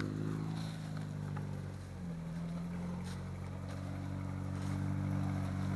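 An off-road vehicle's engine running steadily at low revs, its pitch rising slightly about two seconds in.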